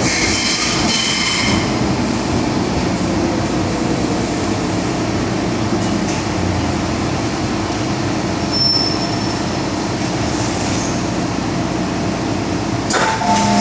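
MTR M-Train electric multiple unit running at speed, a steady rumble of wheels on rail with a brief high wheel squeal in the first couple of seconds. A sharp click comes near the end.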